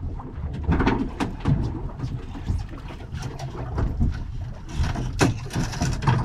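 Hands unhooking a freshly caught thornback ray on a small boat: scattered clicks, knocks and rustling, with a brief louder rustling burst near the end. Underneath is a steady low rumble of wind and water.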